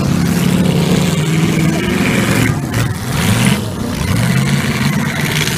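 Demolition derby cars' V8 engines running and revving hard as the cars push and grind against each other, the pitch rising and falling, loudest about three and a half seconds in.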